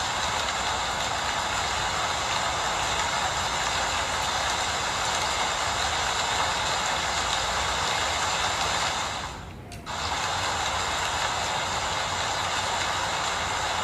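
Steady rain falling, an even hiss with no single drops standing out. The sound briefly fades out about two thirds of the way through and comes straight back.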